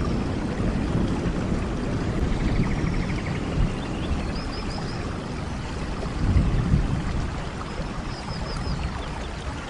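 Steady, heavy rain with a deep rumble underneath that swells and fades. Faint runs of short, high chirps come twice, about halfway through and near the end.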